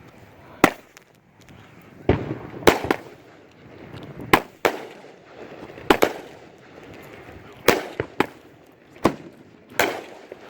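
A 13-shot consumer firework cake (Black Cat 'Wild Game', brocade shots) firing. About a dozen sharp bangs come one after another, roughly one or two a second, some in quick pairs.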